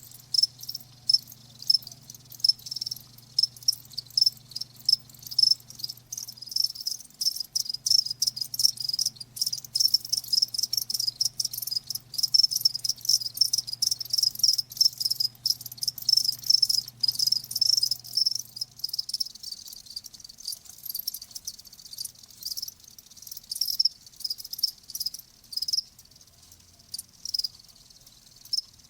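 Crickets chirping: a dense run of short, high-pitched chirps, irregular and overlapping, with a faint low hum underneath that stops about two-thirds of the way through.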